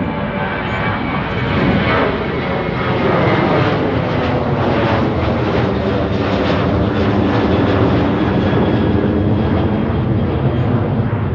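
Airliner departing, its engines loud at takeoff power as a steady broad rumble and hiss, with faint tones falling in pitch about two seconds in.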